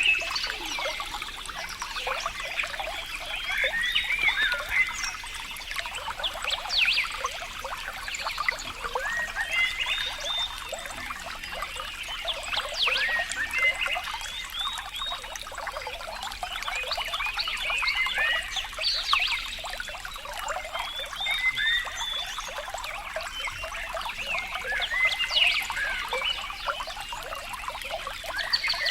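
Water trickling and bubbling steadily, with many short high plinks and chirps from the bubbles.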